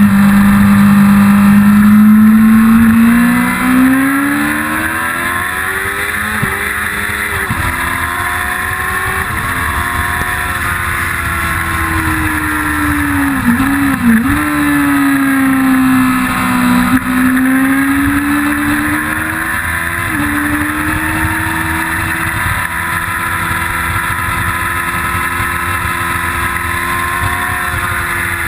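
1999 Yamaha R6's 600 cc inline-four engine at full speed on the track, loud and high-revving at first, then easing off about three to four seconds in. It then rises and falls in pitch through the corners, with quick dips in pitch twice along the way as gears change.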